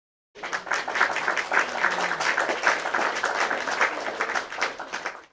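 Heavy rain coming down hard, a dense crackling patter of countless drops that starts and stops abruptly.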